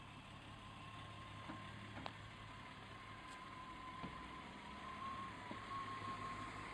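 VW Golf 3 VR6's 2.8-litre narrow-angle V6 engine idling, quiet and steady, with a thin high tone running alongside and a few faint clicks.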